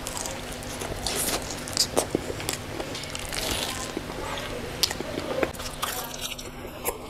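A person biting into and chewing a slice of pizza, with irregular small crunches of the crust and mouth clicks.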